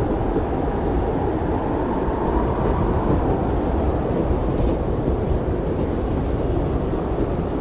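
Blizzard wind blowing in a steady, deep rush, with a faint whistle that swells around two seconds in and fades again.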